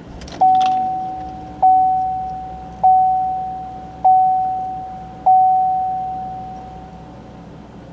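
Dashboard warning chime of a 2017 GMC Sierra pinging five times, about a second apart, each ping struck sharply and ringing out slowly. A few faint clicks come just before the first ping.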